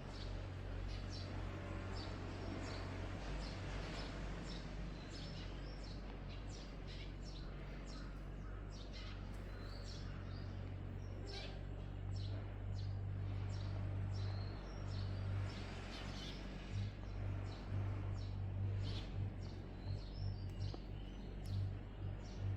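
Small birds chirping, many short high calls in quick, irregular succession, over a steady low hum that grows louder about halfway through.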